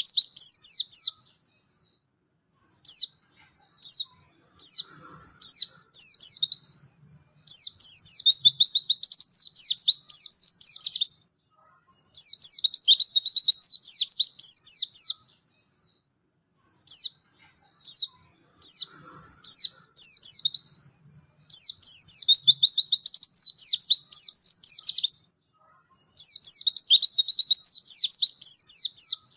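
White-eye (pleci) singing in loud, fast twittering phrases of high chirps. Each phrase lasts a few seconds, with short pauses between.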